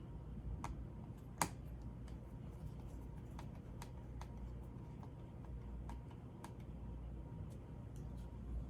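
Scattered light clicks and ticks from a small screwdriver and screws being worked while a laptop motherboard is screwed down, with one sharper click about a second and a half in. A steady low hum runs underneath.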